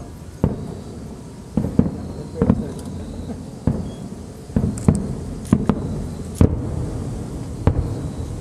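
Aerial fireworks shells bursting: about a dozen sharp bangs at irregular intervals, some in quick pairs, over a steady low rumble.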